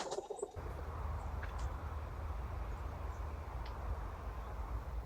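Wind buffeting the microphone outdoors: a steady low rumble and hiss that starts suddenly about half a second in, after a brief click, with a few faint high chirps.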